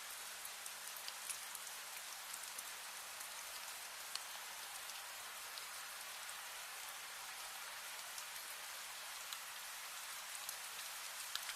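Steady rain: an even hiss of rainfall with many small, scattered drop ticks.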